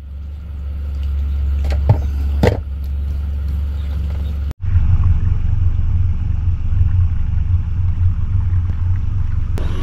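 Boat motor running on the water, a steady low rumble, with two sharp knocks about two seconds in and an abrupt cut a little past halfway before the rumble carries on.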